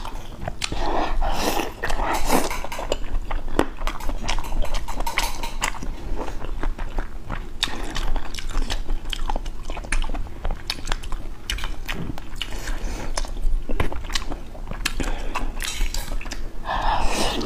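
Close-miked mukbang chewing and biting of braised boneless chicken heads: a steady run of small clicks and mouth smacks.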